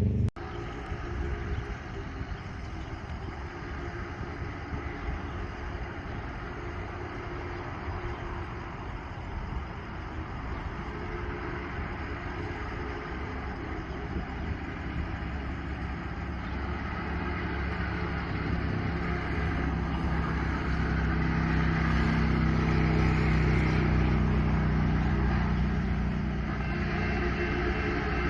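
Steam locomotive approaching, a steady low rumble that slowly builds, with a low steady drone joining in from about two-thirds of the way through.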